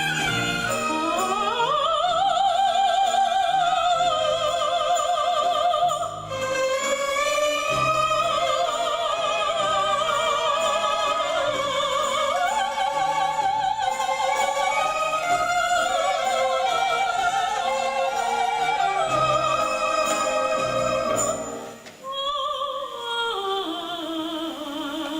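Operatic music: a soprano sings long, high notes with wide vibrato over a soft accompaniment. The music breaks off briefly about 21 seconds in, then a falling phrase follows.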